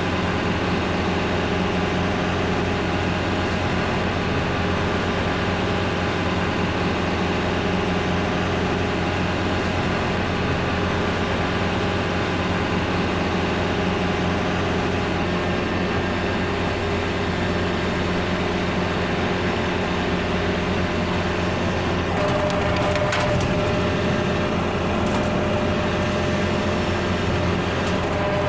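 Kubota L4701 tractor's diesel engine running steadily, driving a Countyline brush hog through trail brush. From about two-thirds of the way in, branches and wood crackle and splinter.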